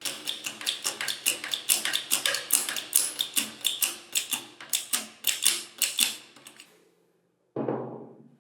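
Rapid run of sharp metallic clicks and taps, about five a second, from tools working on metal parts during reassembly; they fade out near the end, followed by one heavier thud.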